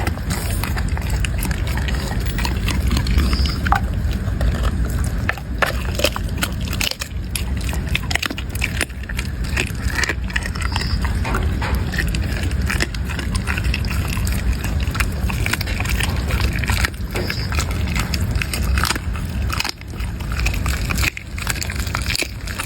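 A dog eating, chewing and smacking wetly with many small crunches and clicks, over a steady low rumble.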